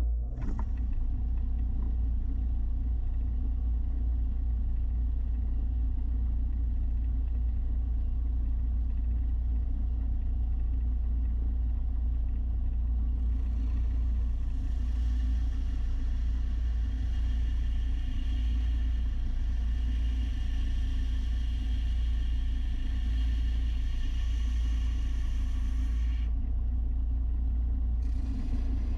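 A motor-driven machine starts and runs steadily with a deep rumble. From about 13 seconds to about 26 seconds a brighter, higher layer with several steady high tones joins it, then drops away.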